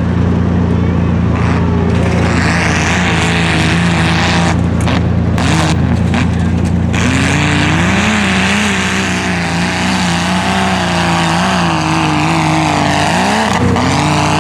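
Tough-truck engine running over a steady low engine drone, revving up and easing off again and again from about halfway in as it works the course.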